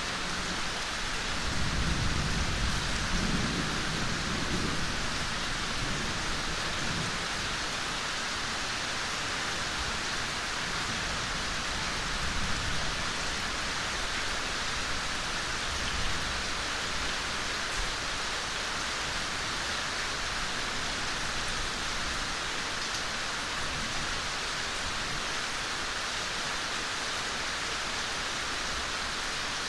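Steady gentle rain, a continuous even hiss. A low rumble swells about two seconds in and fades after a few seconds, with a couple of brief smaller rumbles later.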